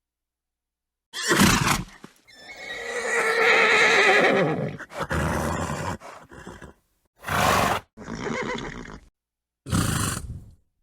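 A horse whinnying: one long neigh that falls in pitch a couple of seconds in, with short noisy snorts before and after it. The sounds are separate clips with dead silence between them.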